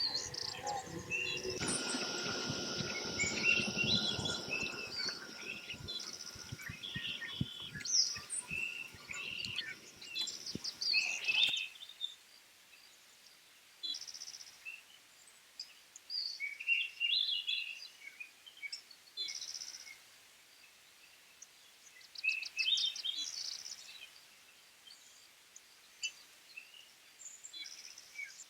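Birds chirping in short, scattered calls. For the first dozen seconds they sit over a low rumbling noise with a few knocks, which then stops suddenly, leaving the calls over a quiet background.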